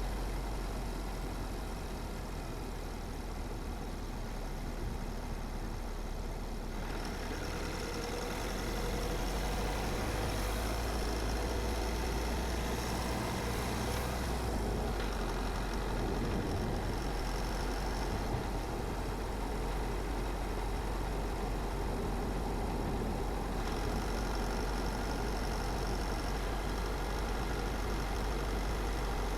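Car driving along a road: a steady low rumble of engine and tyre noise, which gets a little louder and brighter about seven seconds in.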